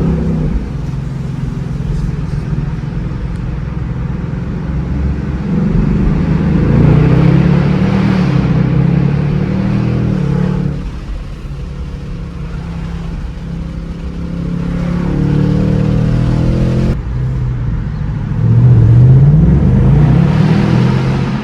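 Ford Mustang GT's 5.0-litre Coyote V8 running while driving. The engine note rises under acceleration about six seconds in and again near the end, and drops back to a lower drone between.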